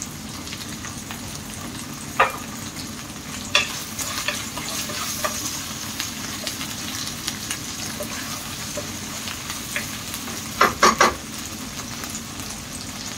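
Beef, onion, garlic and shrimp paste sizzling in an oiled pan as they are stirred, with a few sharp clacks of the stirring utensil on the pan, three in quick succession about eleven seconds in.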